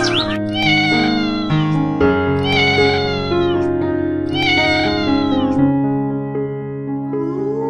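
Cat meowing three times, each meow about a second long and falling away at its end, over background music.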